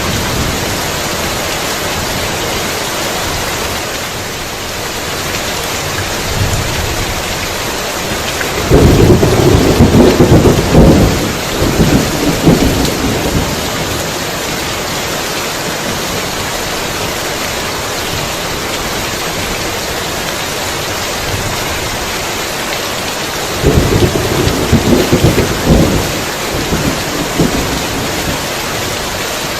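Heavy rain falling steadily, with two loud rolls of thunder rumbling over it, one about a third of the way in and lasting several seconds, the other near the end.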